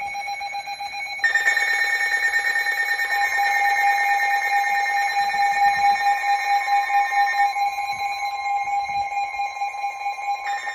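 Weather radio alert sounding for a severe thunderstorm warning: a loud electronic alarm of steady high beep tones with a rapid pulse. The tone grows fuller about a second in.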